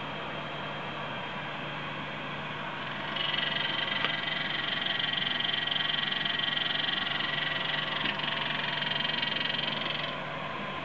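ATI Radeon HD 5850 graphics card cooling fan running with a steady whir; about three seconds in a louder, high-pitched buzzing clatter starts over it and stops shortly before the end. The clatter comes from the fan at raised speed.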